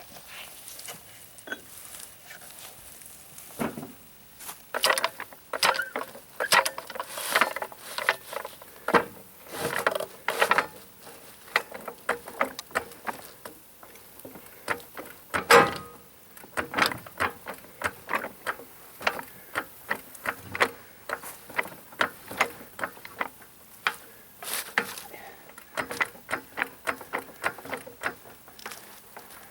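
Irregular metallic clicks and knocks of hand tools and wagon running-gear parts being worked, in quick runs of several a second, with one louder knock about halfway through.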